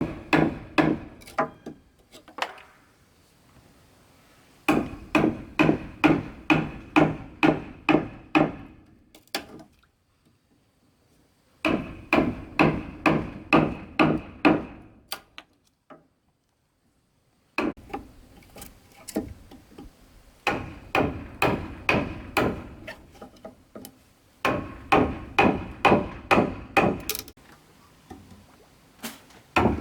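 A hammer driving nails into wood in quick, steady runs of about three ringing blows a second, with short pauses between the runs.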